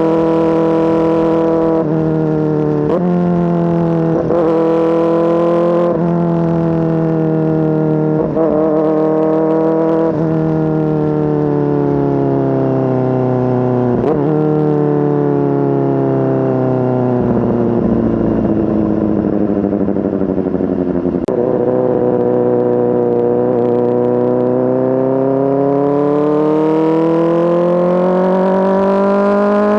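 Kawasaki ZX-4RR's 399 cc inline-four running through an SC-Project S1 exhaust while riding. The engine note jumps abruptly in pitch several times early on, then falls slowly to a low, rough point midway. It rises smoothly and steadily toward the end as the engine climbs in revs.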